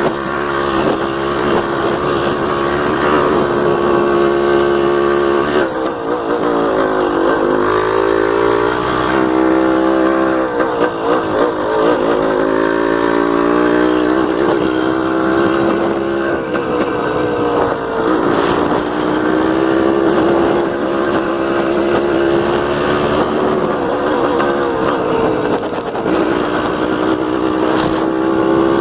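Yamaha DT 180's two-stroke single-cylinder engine running while riding, its revs dropping and climbing again several times as the throttle is eased and opened.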